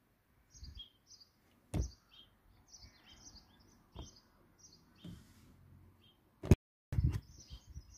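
Small birds chirping repeatedly in short high calls. A few sharp clicks and knocks sound over them, the loudest about six and a half seconds in.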